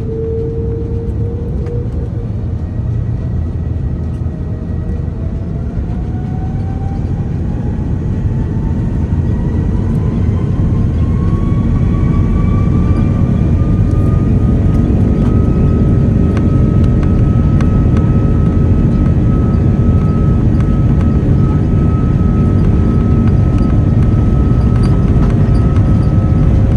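Airbus A330-300 jet engines spooling up to takeoff thrust, heard inside the cabin: a whine that rises in pitch over the first fifteen seconds or so and then holds steady, over a heavy rumble that grows louder.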